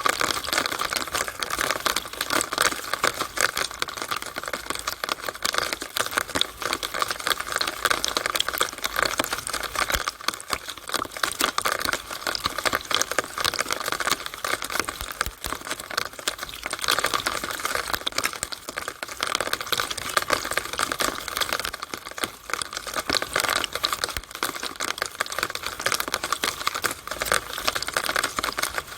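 Rainwater running through a downspout in the rain: a steady, dense patter of fast drops and trickling with no pauses.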